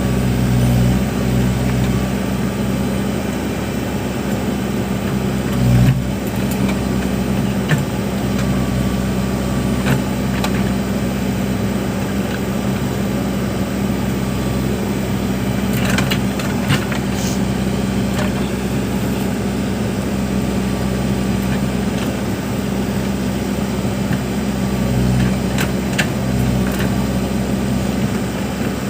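Backhoe loader's diesel engine running steadily, with scattered sharp knocks from the machine's work.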